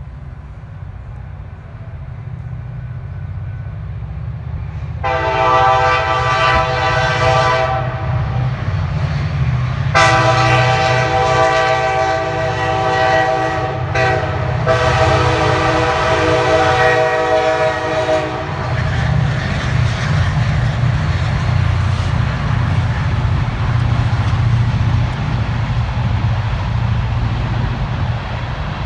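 Wheeling & Lake Erie diesel freight train approaching and passing, its engine rumble growing louder as the locomotive's horn sounds three long blasts, the last two separated by only a short break. After the horn, the steady rumble and rail noise of the passing empty hopper cars carry on.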